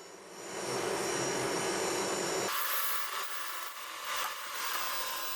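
Boring machine cutter machining a chamfer into a cylinder head's bored-out spark-plug well, a steady rough scraping cutting noise. About halfway through it changes abruptly to a thinner, hissier noise.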